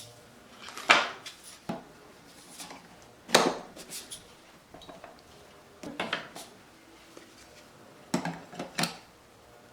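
Scattered sharp knocks and clacks of hard objects being handled and set down, with quiet gaps between them; the loudest come about a second in and about three and a half seconds in.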